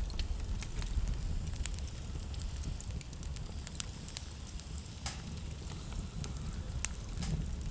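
Wood fire in a fireplace crackling, with a low steady rumble of the flames and irregular sharp pops and snaps, two louder pops about five and seven seconds in.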